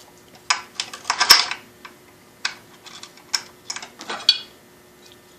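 Small metal parts of a belt sander clicking and clacking as they are handled and fitted back together, in a series of sharp knocks. The loudest comes about a second in.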